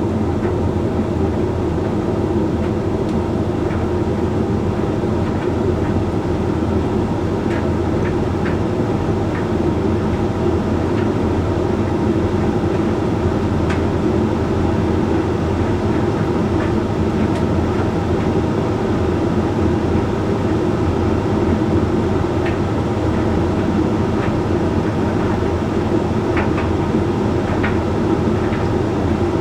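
Hoover Link X Care condenser tumble dryer running late in a Whites drying cycle: a steady hum from the motor and fan as the drum turns the load, with occasional light ticks.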